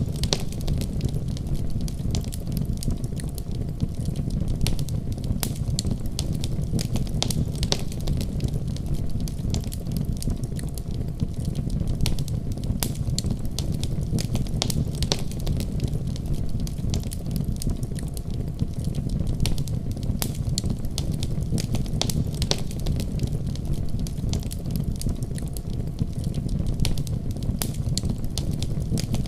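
Wood fire burning in a fireplace, crackling: frequent sharp pops and snaps over a steady low rumble of the flames.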